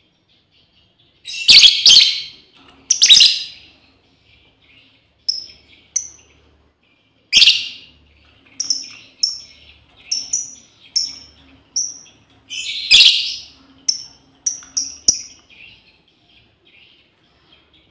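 Lovebirds calling: a few loud, harsh screeching calls in clusters, with a run of short, sharp high chirps between them and faint chattering underneath. These are contact calls, a female calling to her companions.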